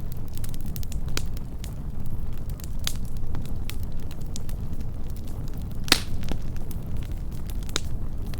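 Wood campfire burning close up: a steady low rumble of flames with scattered sharp crackles and pops, the loudest pop about six seconds in.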